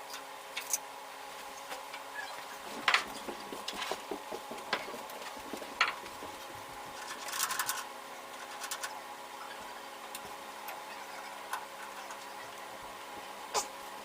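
Drill press drilling holes in a steel bracket: the motor runs with a steady hum, with scattered sharp clicks and knocks and a short burst of noise a little past halfway.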